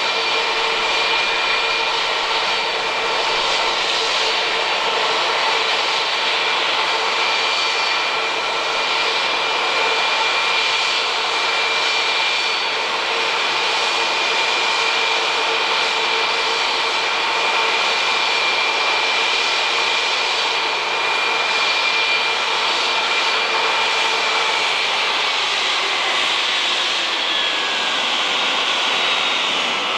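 Airbus A321-231 jet airliner's IAE V2500 turbofan engines running loud and steady: a rushing roar with several high steady whining tones. About 25 seconds in, the tones begin to slide down in pitch.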